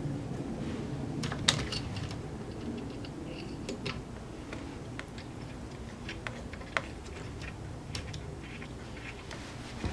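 Scattered light clicks and taps of small brush-cutter parts being handled and fitted during reassembly, irregularly spaced, with a sharper click about a second and a half in and another near seven seconds, over a low steady hum.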